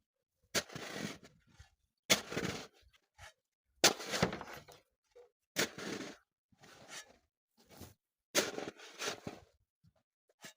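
Shovel digging into packed snow in repeated strokes about every second and a half, each a sharp hit followed by a short scraping crunch.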